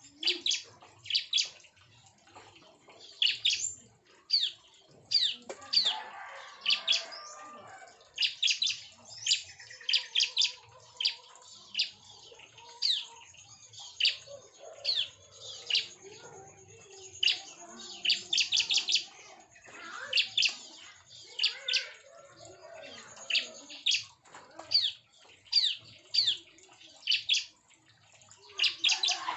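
Bar-winged prinias (ciblek) calling: short, sharp, high chirps that sweep downward, coming in quick clusters of two to four every second or two.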